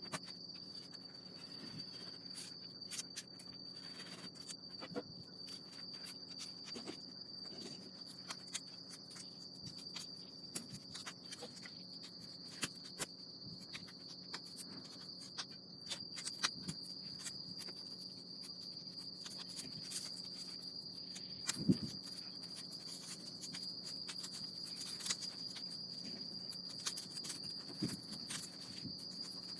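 Insects, likely crickets, trilling steadily in one unbroken high note, with scattered small clicks and crackles throughout and a louder knock a little past two-thirds of the way in.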